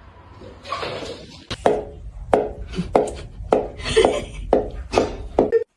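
A series of about eight sharp knocks or strikes, roughly two a second, then an abrupt stop near the end.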